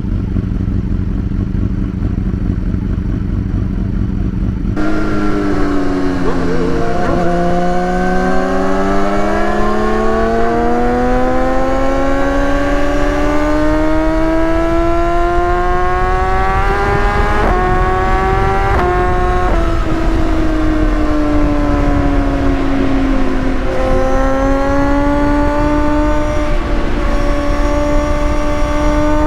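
High-performance engine under way. A steady drone for the first few seconds, then an engine pulling hard with its pitch climbing slowly. Two quick gear changes come about two-thirds of the way through, after which the pitch eases down and then holds steady.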